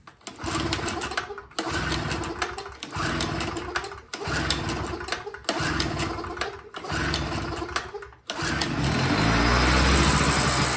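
Small gasoline engines running in a quick series of short cuts, six stretches of about a second each with sharp breaks between them. About eight seconds in, a steadier, deeper engine sound takes over.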